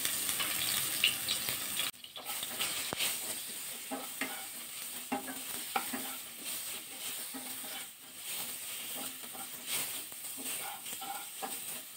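Eggplant pieces sizzling as they fry in mustard oil in a kadai, while a spatula scrapes and turns them, with scattered light knocks against the pan.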